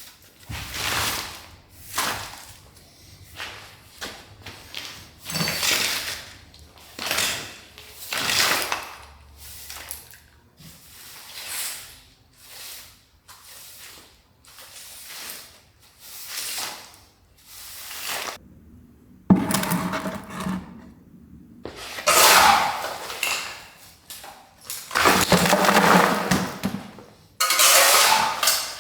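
Demolition rubble being cleared: a run of short scraping strokes about once a second, then louder rattling crashes of debris in the last third.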